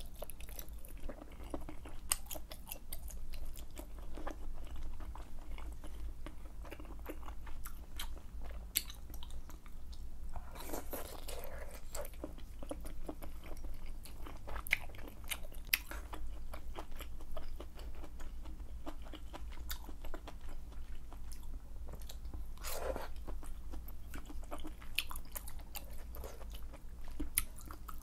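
Close-miked eating of malatang with wide glass noodles: wet chewing and biting full of small clicks. Two longer, louder mouth sounds come about eleven and twenty-three seconds in.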